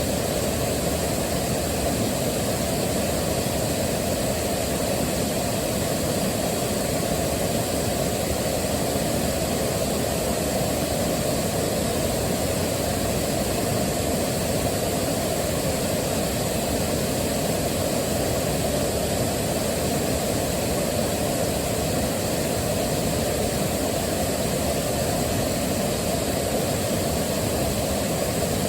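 Waterfall, its water rushing steadily and unbroken, heaviest in the low range.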